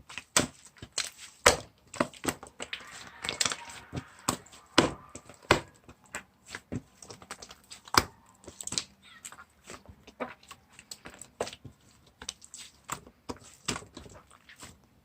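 Chocolate ice cream slime being squished and pressed by hand: a steady run of irregular sticky clicks and pops.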